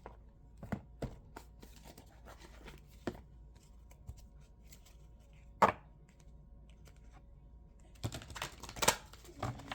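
Oracle cards being handled and shuffled: scattered taps and rustles, one sharp click a little past halfway, and a quicker flurry of handling near the end.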